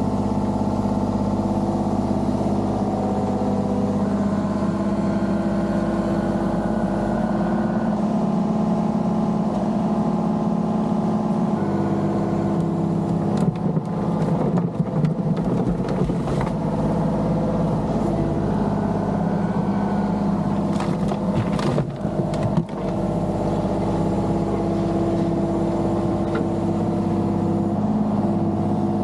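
Diesel engine of a compact excavation machine running steadily, its note shifting slightly in pitch a few times. Two spells of clanking and knocking come near the middle, one about 13 to 17 seconds in and one about 21 to 23 seconds in.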